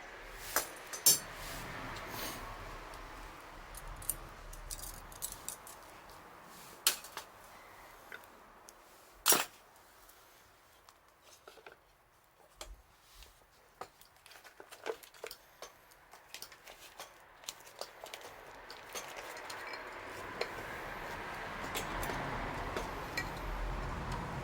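Wood fire crackling, with scattered sharp pops, the loudest about a second in and about nine seconds in. A steady rushing noise builds over the last few seconds.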